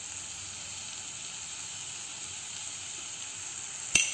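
Chicken pieces in masala frying in oil in a clay pot, a steady soft high sizzle; one sharp click near the end.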